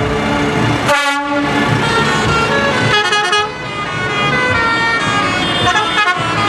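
Several decorated tractors in a lights parade sounding their horns over the sound of their running engines, with one short loud blast about a second in.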